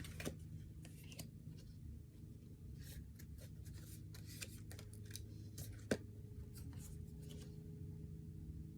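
Faint light rustling and scattered soft clicks, like paper or cards being handled, over a low steady hum, with one sharper click about six seconds in.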